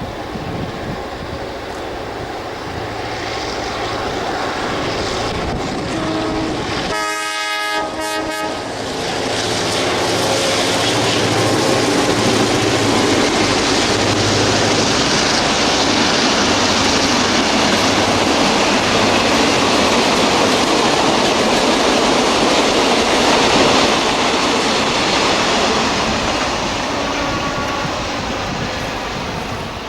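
Diesel-electric locomotives of a heritage train sounding a horn for a couple of seconds about seven seconds in, then the train running by: engine noise and wheel clatter on the rails build, hold and ease off near the end.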